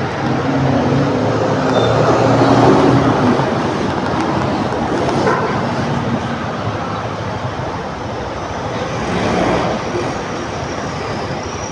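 Motor scooter being ridden along a road: its engine running under a steady rush of wind and road noise, the engine note clearest in the first few seconds.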